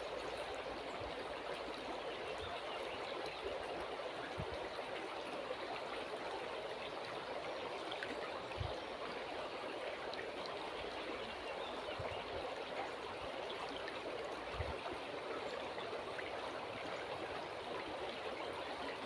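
River water flowing and rushing steadily, with a few soft low thuds now and then.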